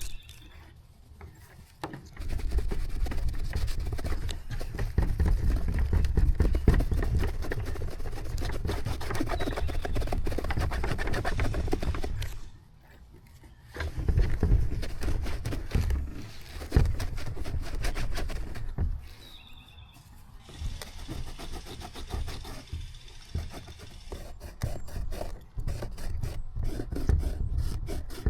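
Hand-polishing a plastic tail light lens with fine buffing compound: steady rubbing and scrubbing strokes, stopping briefly three times.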